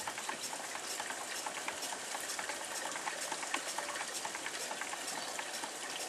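Replica 4-inch-bore Rider-type hot air pumping engine, built of steel and stainless steel, running and pumping water: a steady hiss with many light, irregular clicks and ticks.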